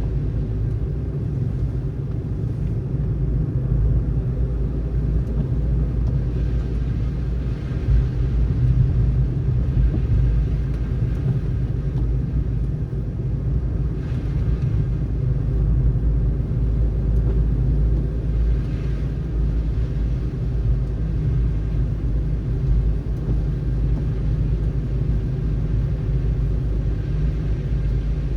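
Steady low rumble of a car driving along: road and engine noise, with no change in pace.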